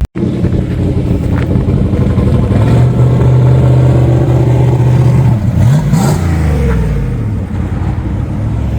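Road traffic passing by: motor vehicle engines running, with one going past about six seconds in as its engine pitch sweeps.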